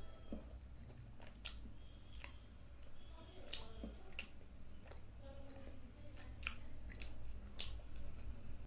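Close-up mouth sounds of a person chewing food, with scattered short sharp smacks and clicks.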